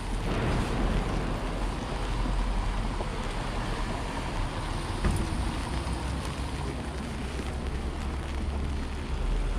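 Rain ambience with a steady low rumble underneath, which swells just as the sound begins, and a brief louder knock about five seconds in.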